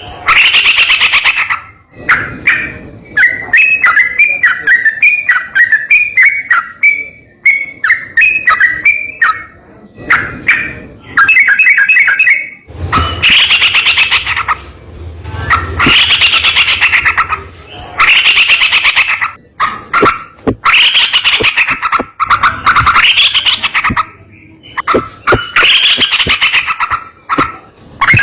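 Trucukan (yellow-vented bulbul) singing: loud, harsh, rapid chattering phrases about a second long, repeated every couple of seconds. In the first third there is a run of short, clear whistled notes instead.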